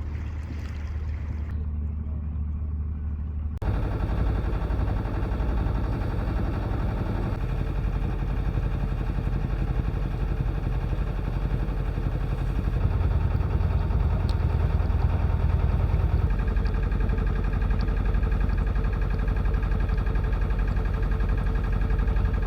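A small sailboat's inboard engine running steadily while motoring upriver. The sound changes abruptly and gets louder about three and a half seconds in, then drones on evenly.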